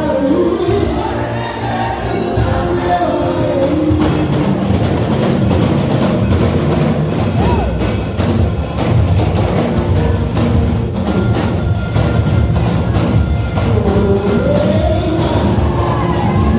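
Church praise music with a drum kit and singing voices, the singing most prominent in the first few seconds and again near the end.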